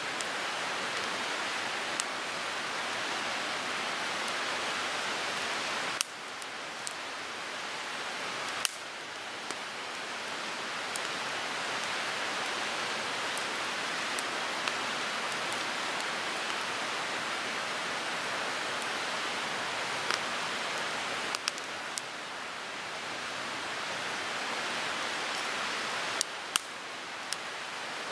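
Wood fire burning in a Picogrill 398 folding fire pit: a steady hiss of the flames with sharp crackling pops every few seconds.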